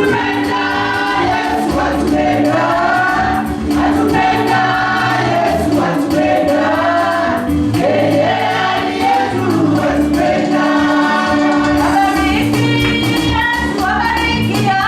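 Gospel worship song: a group of voices singing together over instrumental backing with a steady beat and a sustained bass line.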